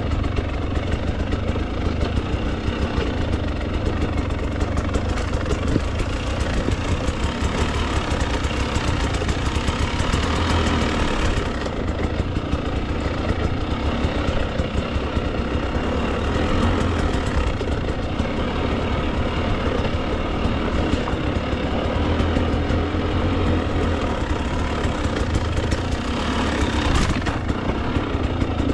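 Husqvarna TE 300 two-stroke dirt bike engine running steadily under light throttle, with small rises and falls in level.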